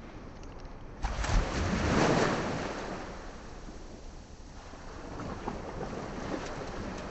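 Wind and sea water washing around a fishing kayak, with a surge that starts about a second in, peaks and fades, then builds again near the end.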